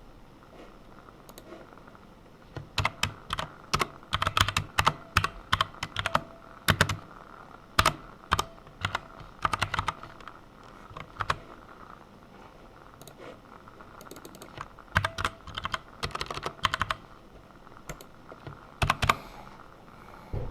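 Typing on a computer keyboard: quick runs of key clicks broken by short pauses, starting a couple of seconds in and with a last short burst near the end.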